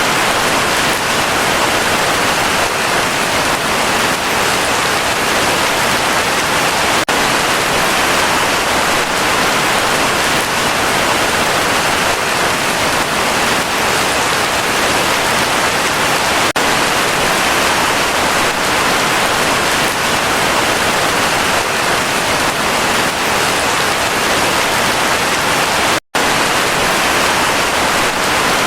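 Heavy rain falling in a steady, even hiss, with no let-up; the sound cuts out for an instant near the end.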